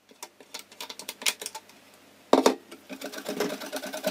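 Wire whisk clicking against a glass mixing bowl, with a loud knock a little over two seconds in. Then the whisk ticks rapidly and evenly against the glass as liquid batter is whisked.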